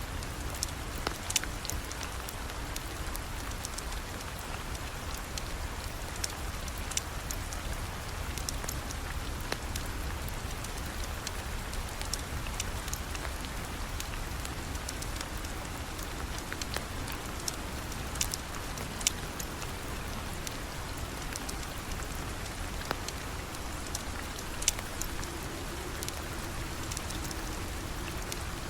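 Steady rain falling, with scattered sharp ticks and pops throughout, the loudest about a second in and again near the end.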